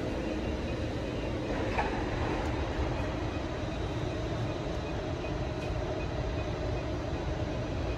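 Train in motion: a steady, even rumble of running on the rails.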